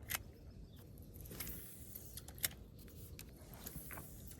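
A handful of sharp clicks and knocks, spaced irregularly, over a faint low rumble.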